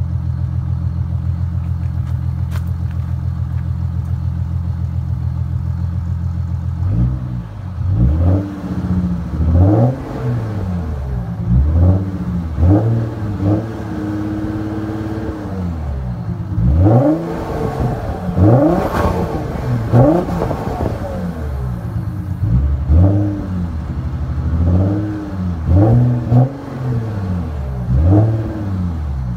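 3.0 V6 CDTI turbodiesel engine with a straight-piped exhaust, idling steadily for about seven seconds, then revved over and over in short blips and a few longer pulls, dropping back toward idle between them, and settling back to idle near the end.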